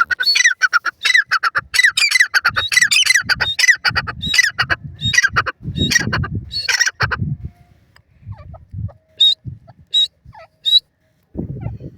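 A grey francolin (teetar) calling: a rapid run of loud, shrill repeated notes for about seven seconds, then three short high notes near the end. Low thumps sound beneath the calls from about three seconds in.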